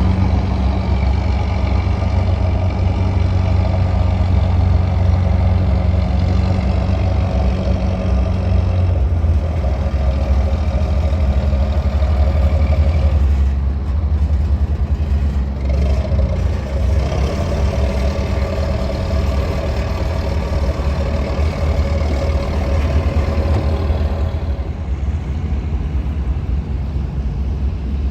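Fishing trawler's engine running steadily with a deep low drone; its note shifts slightly about halfway through.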